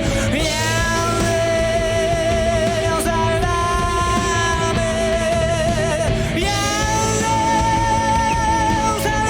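Rock band playing loud, distorted music, with long held, wavering lead notes that change pitch about half a second in and again at about six and a half seconds, over a dense, steady low accompaniment.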